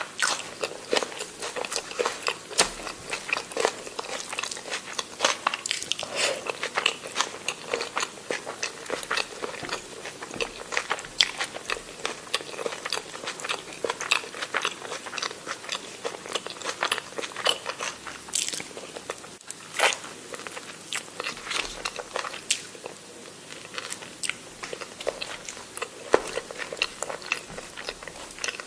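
A person chewing and biting food, with wet mouth clicks and crunches coming several times a second in an uneven rhythm. A few louder crunches come about two-thirds of the way through.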